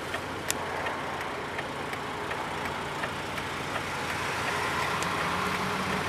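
Steady background vehicle noise with a few light clicks; a motor's hum grows a little louder in the second half.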